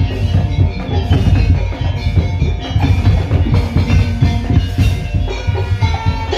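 Madurese ul daul (tong-tong) carnival percussion music: loud, dense drumming with heavy bass beats under melodic tuned percussion lines, playing continuously.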